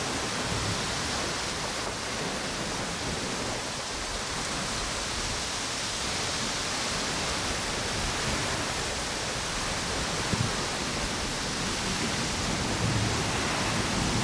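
Steady rush of wind and ocean surf on a tropical beach, a continuous even noise with no lulls. Two brief low thumps come about ten and thirteen seconds in.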